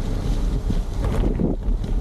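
Wind buffeting the microphone of a camera on a moving gravel bike: a steady low rumble and rushing, with a short louder patch a little past the middle.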